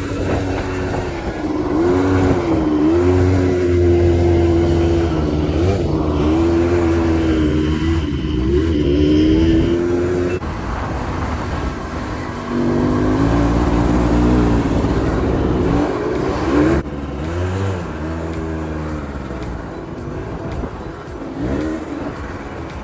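Buggy bike's engine running over the sand dunes, its revs rising and falling with the throttle. The sound changes abruptly about ten seconds in.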